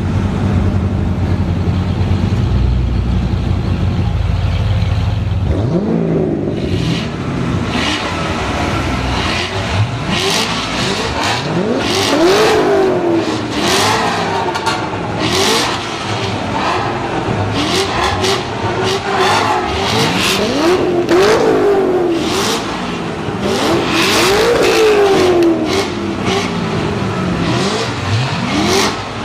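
Several Chevrolet Corvette C6 Z06 7.0-litre LS7 V8s, some on Borla and Corsa aftermarket exhausts, idling together in a tunnel, then from about six seconds in revved over and over, many overlapping rises and falls in pitch.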